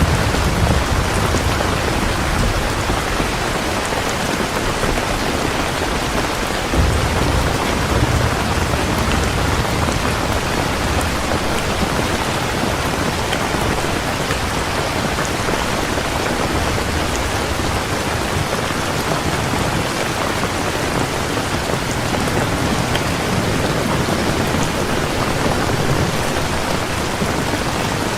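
Heavy rain falling steadily, a dense even hiss, with low rumbles of distant thunder right at the start and again about seven seconds in.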